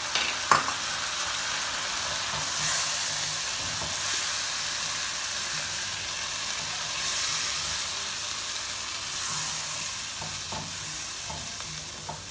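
Potatoes, onion and whole spices frying in oil in a pot, sizzling steadily as whisked yogurt goes in and a metal spatula stirs it. The sizzle swells several times with the stirring. There is one sharp click about half a second in.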